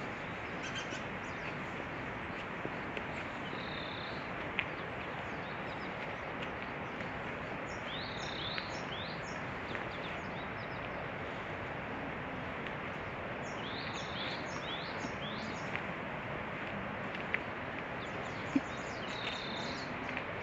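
Outdoor ambience with a steady hiss, with a small bird calling in several short bursts of quick, high, sweeping chirps and a few faint ticks.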